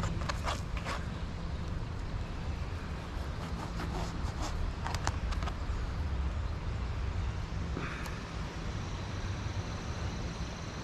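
A steady low motor-like hum, with a few short clicks and knocks from handling the marinating steak strips and their container.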